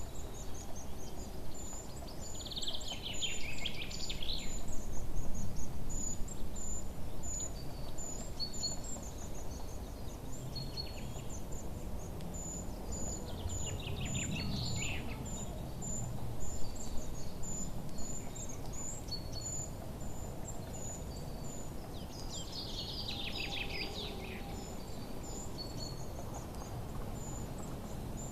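Songbirds chirping: bursts of quick, falling chirps come every several seconds, over a steady series of high, thin repeated notes and a low background rumble.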